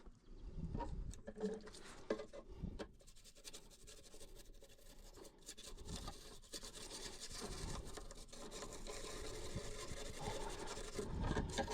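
Quiet scratching and scrubbing on the corroded circuit board of a water-damaged RF hub module as it is cleaned: many small, rapid strokes.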